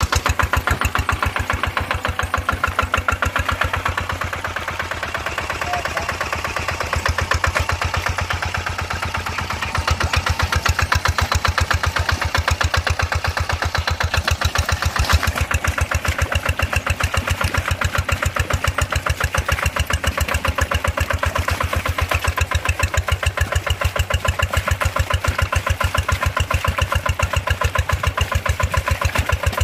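Paddy-field tractor's diesel engine running with a steady, rapid chugging, a little louder from about ten seconds in.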